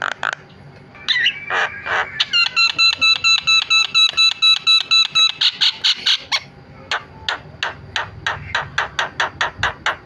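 A Javan myna (jalak kebo) chattering: a fast, loud run of harsh and whistled notes, about five a second, starting about a second in after a brief pause.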